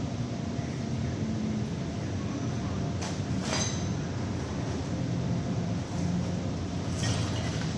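Steady low mechanical rumble, with two short hissing swells about three and seven seconds in.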